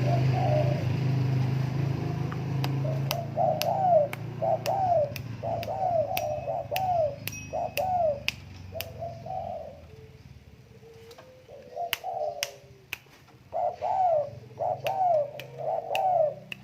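Spotted dove cooing: a long series of short arched coos that pauses around ten seconds in and then resumes, with sharp clicks scattered among them.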